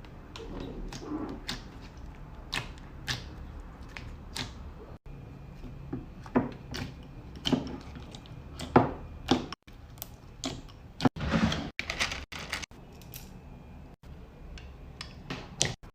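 Hands squishing and poking slime: an irregular string of crisp clicks, crackles and squelches, broken by several sudden cuts.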